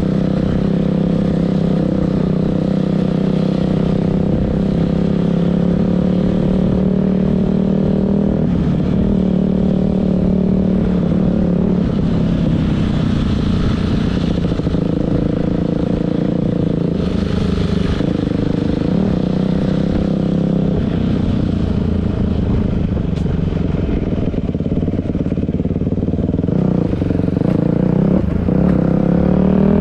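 Dirt bike engine running steadily under way, its pitch drifting up and down a little with the throttle.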